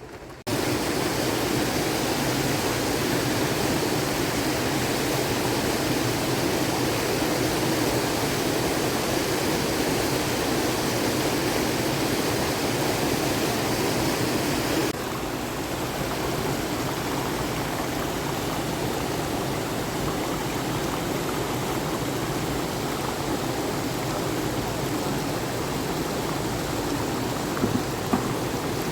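Steady rush of flowing water, with an abrupt drop in its hiss and body about halfway through.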